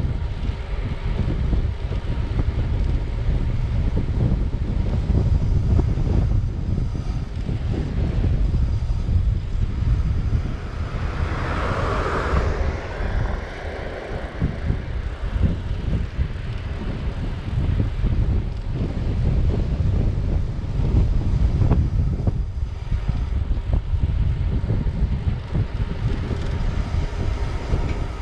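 Wind buffeting the microphone while riding a bike: a steady, gusting low rumble, with a louder hiss swelling briefly about halfway through.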